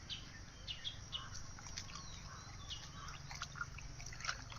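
Birds chirping: many short, scattered high calls, a few of them quick glides, over a faint low rumble.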